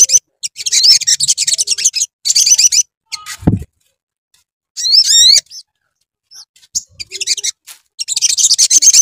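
Crimson sunbird (sogok ontong) song: several bursts of rapid, high-pitched chattering trills, with a short phrase of quick whistled notes that rise and fall about five seconds in. A single low thump sounds about three and a half seconds in.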